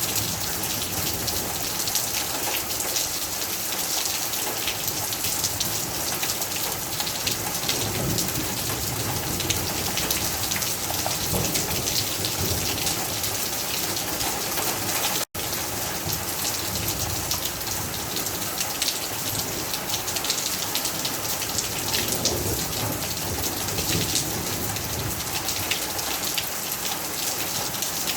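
Steady rain pouring down, with many individual drops pattering close by. The sound drops out for a split second about halfway through.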